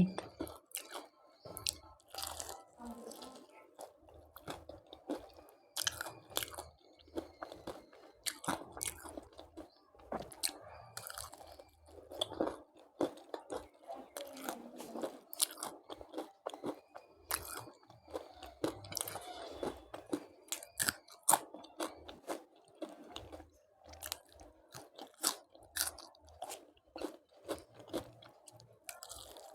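A person biting and chewing crunchy food close to the microphone, with many short, irregular crisp crunches.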